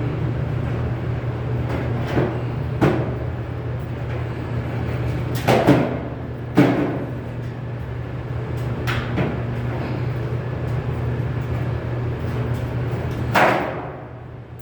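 A steady low hum with a handful of sharp knocks and clanks scattered through it, the loudest a pair about five and a half to six and a half seconds in and another near the end.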